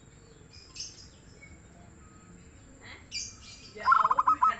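Zebra dove (perkutut) calling: a loud, rapid run of short notes starting about four seconds in. A few brief high chirps come before it.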